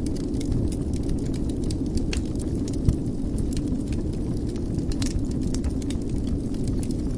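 Wood fire burning in a fireplace: a steady low rumble of flames with scattered small crackles and one sharper pop about three seconds in.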